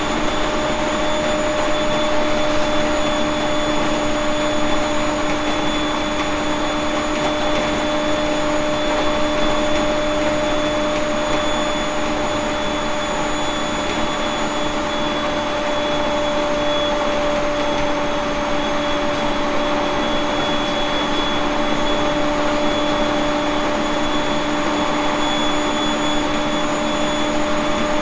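Running sound inside a JR East 701 series 1500-subseries AC electric multiple unit at a steady speed: a constant rumble of wheels on rail with a few steady whining tones that hold their pitch.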